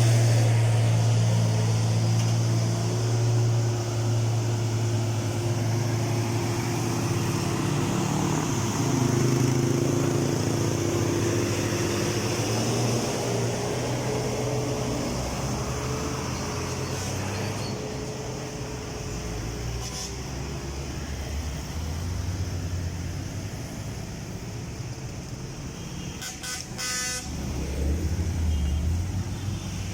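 Heavy road traffic with truck and car engines running as vehicles pass, and a short horn toot near the end.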